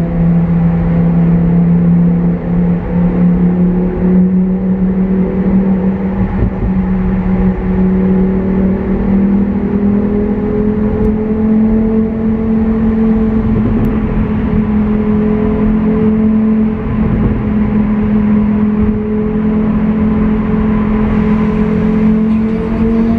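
Lamborghini Huracán Performante Spyder's V10 engine running under load at highway speed in Corsa mode, its note climbing slowly and steadily in pitch, over continuous tyre and road noise.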